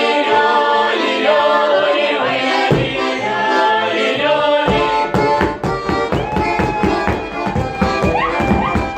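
Instrumental Russian folk music: an accordion plays the tune, and a fast percussion beat joins it about five seconds in.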